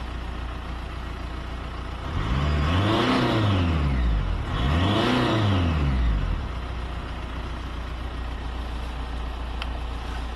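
2006 Audi A4 2.0 TDI four-cylinder turbodiesel engine idling, revved up and back down twice about two seconds apart, then settling back to idle.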